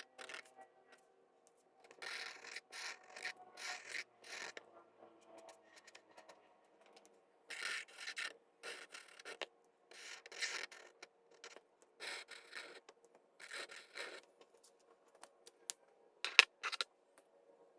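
Drawing strokes scratching on paper, in short rubbing passes with pauses between, typical of colouring in or outlining a drawing. A sharp tap about sixteen seconds in is the loudest sound.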